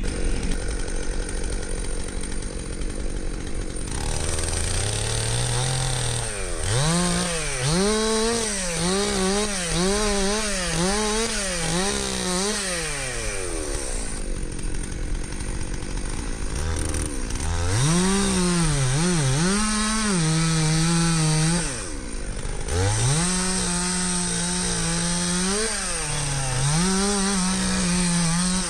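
Two-stroke chainsaw cutting wood in three long spells. The engine pitch keeps rising and dipping as the chain loads in the cut, and it runs lower between the spells.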